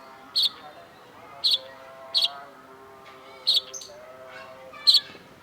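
Long-tailed shrike (cendet) giving five sharp, high, very short chips spaced irregularly about a second apart, with softer, lower-pitched wavering sounds running underneath.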